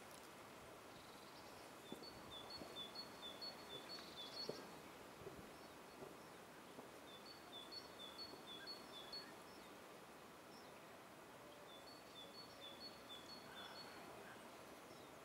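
Faint songbird song: a short high two-note phrase repeated quickly several times, in three bouts, over a steady low outdoor hiss.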